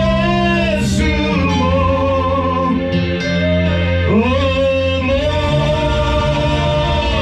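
Gospel worship song: a singing voice holding long notes, sliding between pitches at the start and again about four seconds in, over guitar accompaniment.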